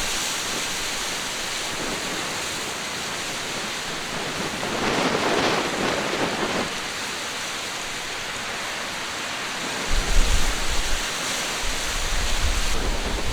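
Storm surf and wind-blown sea spray hiss steadily, with a louder surge of water about five seconds in. From about ten seconds in, strong mistral gusts buffet the microphone with a low rumble.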